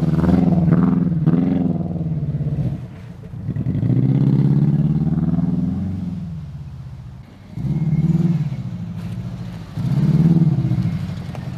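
Subaru Impreza's flat-four engine revving hard in four rising and falling surges with brief let-offs between them as the car is driven over rough dirt, its exhaust leaking at the manifold.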